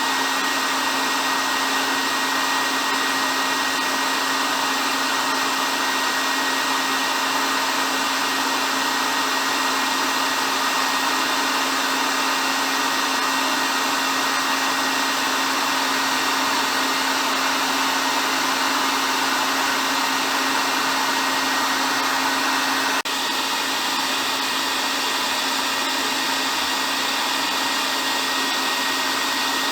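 Hair dryer running steadily: an even rush of blown air with a thin high motor whine and a low hum. About 23 seconds in there is a faint click and the level dips slightly.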